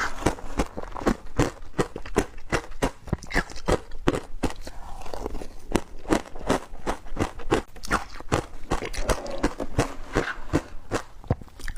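Bites crunching into wet frozen matcha ice, a quick run of sharp cracks several times a second, recorded close up.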